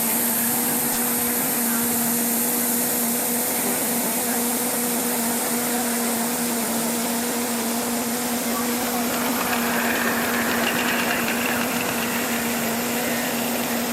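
A steady mechanical hum with a constant hiss over it; a faint higher tone joins about ten seconds in.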